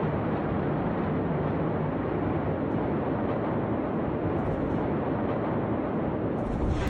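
Steady low rumbling noise of a simulated explosion scene, with the deep rumble swelling near the end.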